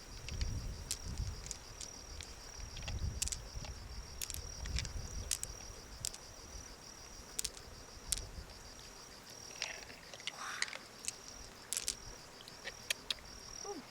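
A high, steady insect trill with brief breaks runs throughout, over scattered sharp clicks and knocks. There is low rumbling handling noise in the first half.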